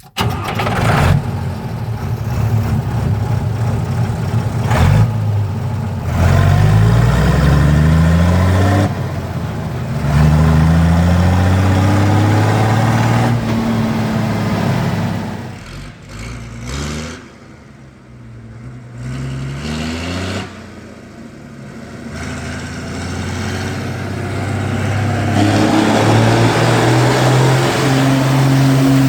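Deutz 8006 tractor's air-cooled four-cylinder diesel running through a home-built exhaust, revved up several times and dropping back toward idle, with a quieter spell in the middle.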